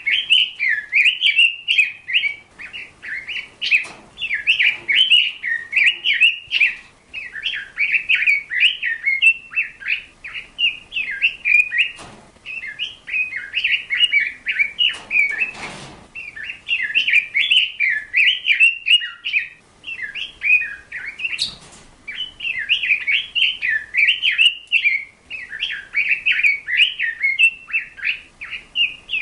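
A bird chirping quickly and almost without pause, with a few short breaks.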